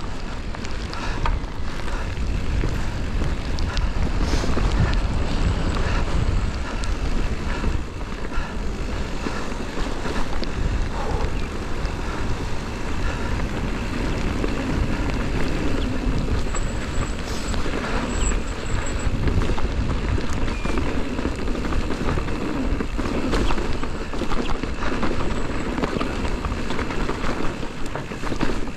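Wind buffeting a GoPro microphone on a mountain bike ride downhill, with a steady low rumble, tyres on the trail and the bike rattling with many small knocks and clicks.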